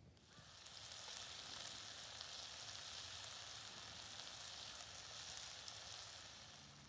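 Food sizzling in a hot pan over a wood fire, a steady crackling hiss that swells up within the first second and eases off slightly near the end.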